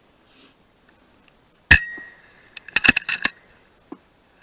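A .177 FX Dreamline PCP air rifle fires one sharp shot with a brief metallic ring. About a second later comes a quick run of metallic clicks and clinks, the side lever being cycled to load the next pellet.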